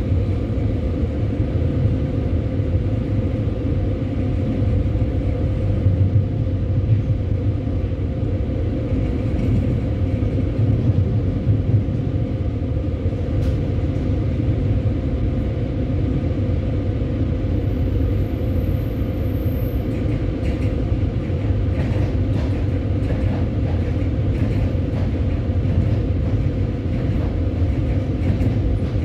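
Passenger train running: a steady low rumble of wheels and carriage with a constant hum, and scattered light clicks in the later part.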